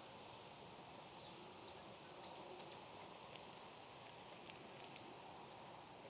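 Faint outdoor ambience with a bird giving three or four short, high call notes between about one and three seconds in, followed by a few faint ticks.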